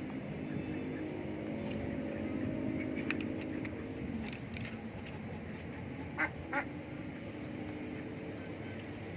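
Ducks quacking while feeding, with two short, sharp, loud sounds close together about six seconds in. A low steady hum fades out in the first half.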